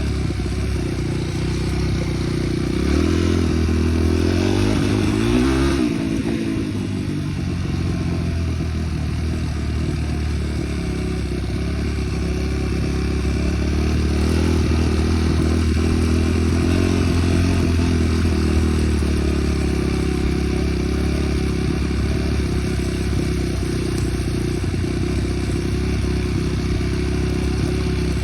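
Small vehicle engine running under way, with the rider on the throttle: it speeds up about three seconds in, drops off sharply near six seconds, then builds again in the middle of the stretch before settling.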